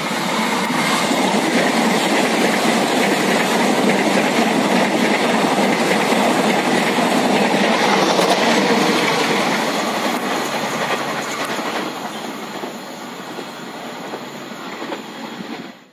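Red-and-white electric commuter train passing close by, its wheels running on the rails in a steady loud rush that swells in the middle and fades toward the end.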